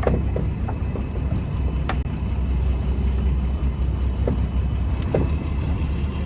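Fishing trawler's engine running with a steady low drone, broken by a few brief knocks.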